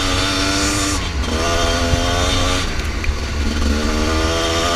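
Husqvarna TE300i two-stroke dirt bike engine running under way, its note changing pitch about a second in and again near three seconds as the throttle changes. Heavy wind rumble on the microphone.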